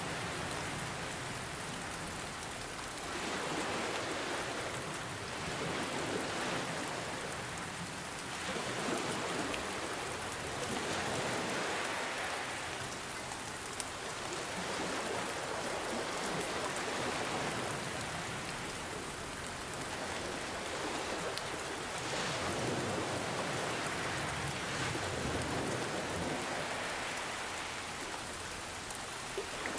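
Steady rain falling, mixed with ocean waves washing in: the sound swells and fades every few seconds.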